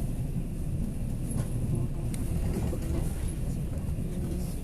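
Taiwan Railway express train running at speed, heard from inside the passenger car: a steady low rumble with a few faint clicks.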